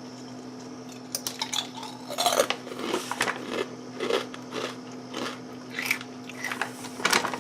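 A person biting into and chewing thick kettle-cooked potato chips, with irregular sharp crunches starting about a second in; the chips are extremely crunchy.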